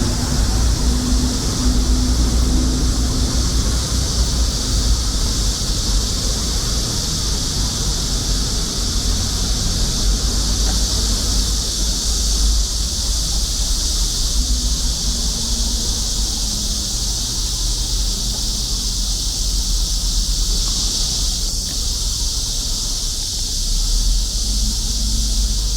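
A chorus of cicadas singing in one continuous high buzz, over a steady low rumble.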